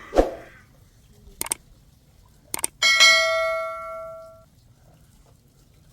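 A metal object is struck and rings with a bell-like tone that fades over about a second and a half, after a few sharp clicks. There is a short thump just at the start.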